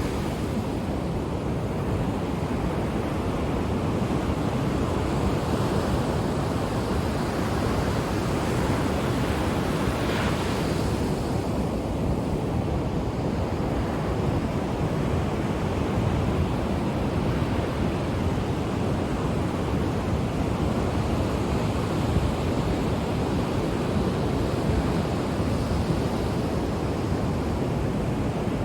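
Ocean waves breaking and washing on the shore in a steady, continuous rush, swelling and easing slowly, with some wind noise on the microphone.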